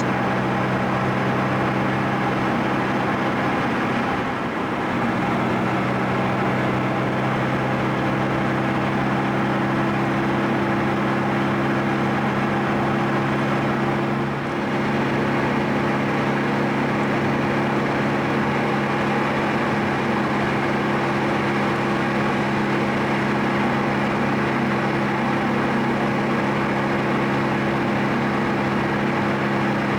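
Car engine drone heard from inside the cabin while driving at a steady pace. The drone dips briefly twice, about four and fourteen seconds in, and settles on a slightly different pitch each time.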